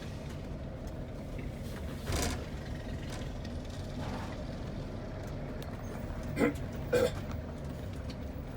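Steady engine and road rumble inside a moving vehicle's cabin, with a brief louder noise about two seconds in and two short, sharper sounds a little over half a second apart near the end.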